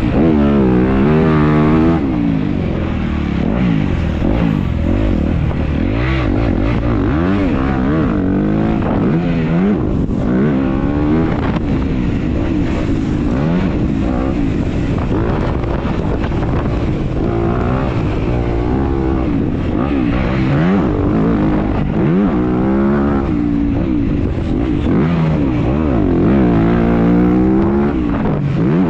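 Dirt bike engine racing around a motocross track, heard close up from the rider's on-board GoPro; the pitch climbs and drops again and again as the rider opens the throttle, shifts and rolls off.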